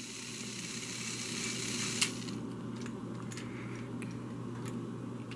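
A battery-powered Trackmaster toy engine's small electric motor and gears running steadily. There is a light click about two seconds in, after which the higher part of the whir drops away, and a few faint ticks follow.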